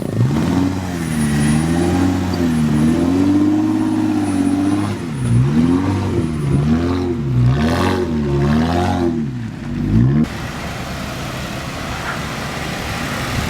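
Off-road vehicle's engine revving up and down under throttle. Slow swells give way to quicker revs about once a second, then the sound cuts off abruptly about ten seconds in, leaving steady engine and road noise.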